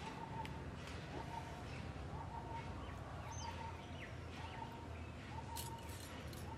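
Faint outdoor ambience with birds calling: a short flat call repeated roughly once a second, with scattered small chirps.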